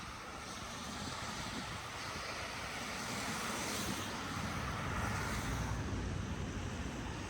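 A car passing on a snowy street, its tyre hiss swelling to a peak about four to five seconds in and then easing.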